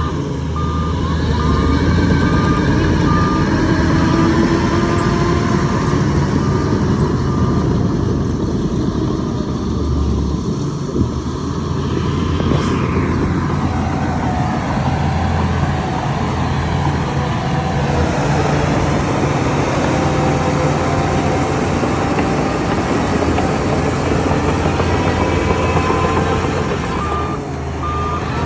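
Heavy diesel machinery engines running steadily under load, with a reversing alarm beeping at the start and again near the end. The sound changes abruptly about halfway through and again near the end, as if cut between shots.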